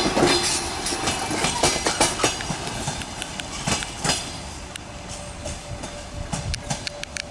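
Passenger train's coaches rolling along the track, wheels clacking over the rail joints, the sound fading away as the train moves off.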